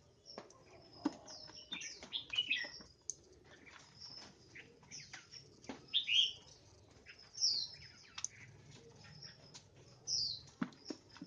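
White-rumped shamas calling with short chirps and whistled notes, several louder calls standing out, with scattered sharp clicks among them.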